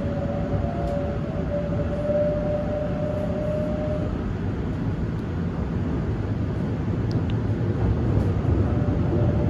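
Seoul Subway Line 7 7000-series train running, heard from inside the car: a steady low rumble of the wheels and running gear on the rails. A held whine fades out about four seconds in, and the rumble grows a little louder near the end.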